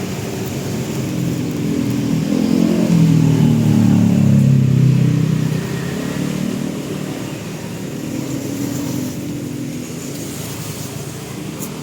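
A passing motor vehicle's engine, growing louder about two seconds in, loudest around four to five seconds, then fading away.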